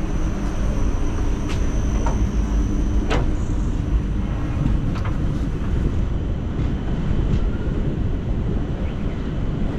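Passenger train running, heard from the open doorway of a coach: a steady rumble of wheels on the track, with a few sharp clicks.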